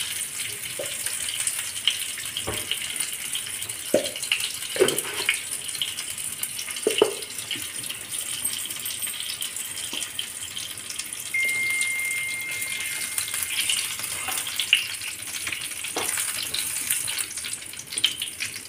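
Whole stuffed brinjals frying in oil in a non-stick pan: a steady sizzle, with occasional knocks of a wooden spatula against the pan as they are turned. A thin steady high tone sounds for about two seconds just past the middle.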